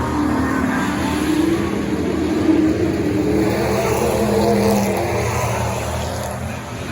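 Pro trucks' engines racing around a short oval track, several engines at once, their pitch rising and falling as they pass.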